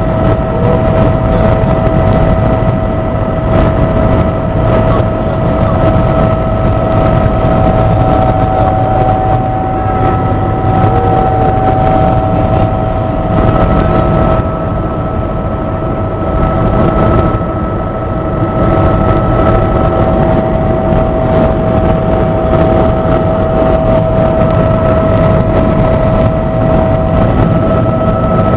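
Helicopter in flight: a steady, loud engine and rotor drone with a constant whine running through it.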